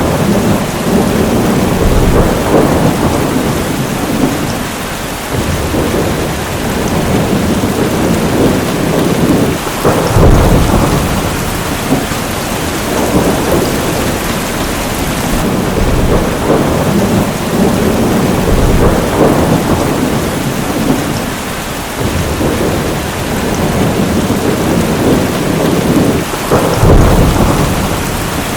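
Heavy rain pouring steadily, with rolling thunder rumbling throughout; the loudest thunder rolls break out about ten seconds in and again near the end.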